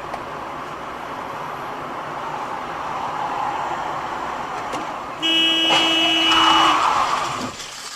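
Road noise from a moving car, then about five seconds in a car horn sounds one steady blast lasting about a second and a half.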